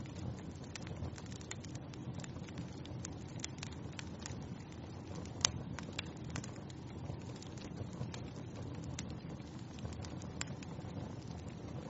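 Wood fire crackling: a steady low rush of burning with many small sharp pops and snaps, one louder pop about five and a half seconds in.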